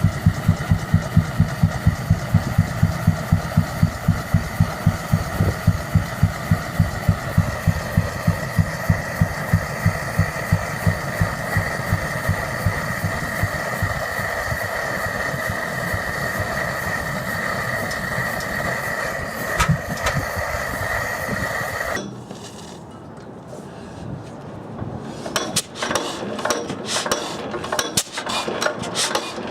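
Old Fairbanks Morse engine running with a steady beat of about four pulses a second and a high whine over it. The beat fades out partway through while the whine continues, then there is a sudden cut to a quieter stretch with scattered clicks and knocks.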